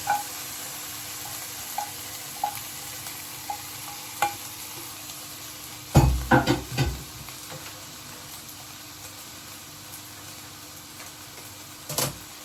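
Chicken, egg and rice noodles sizzling in a hot non-stick frying pan while being stirred. A utensil taps against the pan every second or so, there is a burst of louder clattering about six seconds in, and one more knock near the end.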